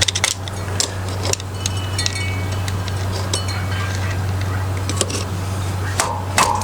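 Light metallic clinks and scrapes of a hand tool working a stuck, damaged master link out of a dirt bike's drive chain, with a few brief ringing tings, over a steady low hum.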